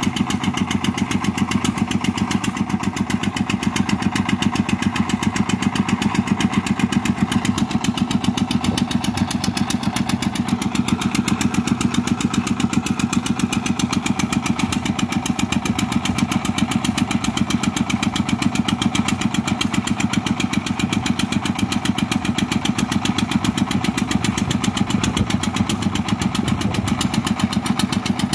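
Single-cylinder diesel engine of a công nông (Vietnamese farm tractor-truck) running steadily with a fast, even firing beat.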